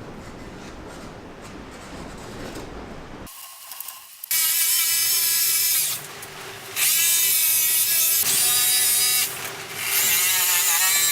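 Power tool cutting: three runs of a few seconds each, a steady motor whine whose pitch wavers as it bites, after a few seconds of rougher, lower noise.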